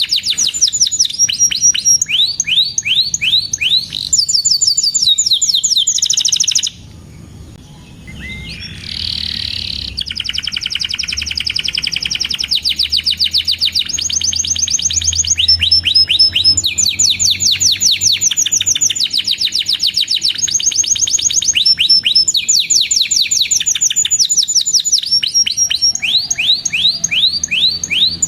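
Canary singing: long, rapid trills of repeated short sweeping notes that change to a new note type every few seconds, with a brief drop in level about seven seconds in.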